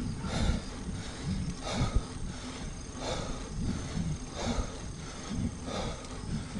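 A cyclist breathing hard and rhythmically, about one heavy breath every second and a half, over a low wind rumble on the action camera's microphone.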